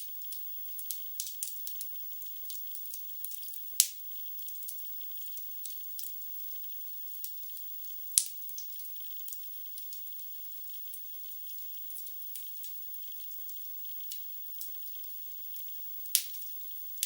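Wood logs burning in a fireplace, crackling with a steady scatter of small pops and a few louder snaps, about 4 and 8 seconds in and near the end.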